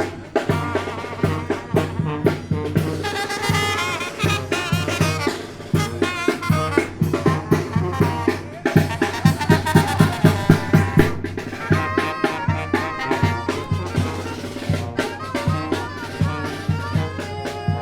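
A tamborazo band playing live: brass horns carrying the tune over a fast, steady beat of tambora bass drum and snare.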